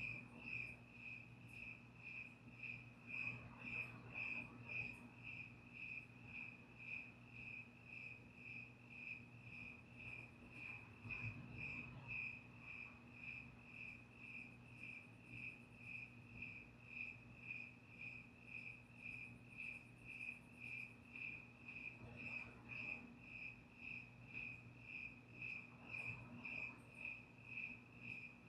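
Crickets chirping in a steady, even rhythm, about two chirps a second, with a faint low steady hum underneath.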